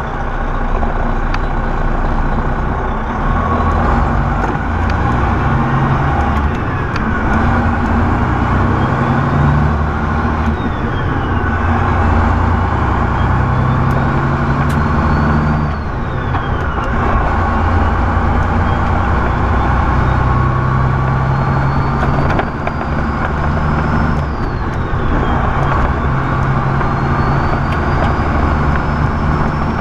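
Semi-truck diesel engine pulling through the gears: its pitch and a high whine climb steadily, then drop sharply at each upshift, several times over.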